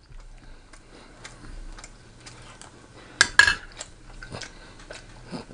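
Close-miked chewing with the mouth closed, giving small irregular wet clicks. A little over three seconds in comes a louder clink as a metal fork is set down on the plate.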